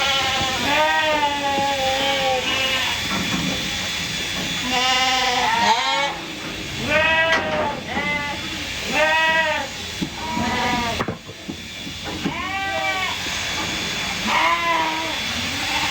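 Several sheep bleating over and over, short wavering calls about once a second, some overlapping at different pitches.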